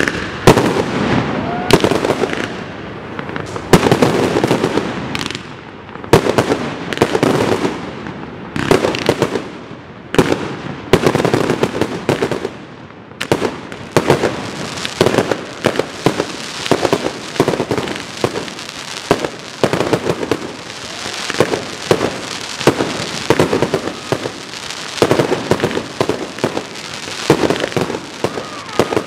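Fireworks display: aerial shells bursting in a rapid run of bangs, about one or two a second. About halfway through, a steadier crackle and hiss fills the gaps between the bursts.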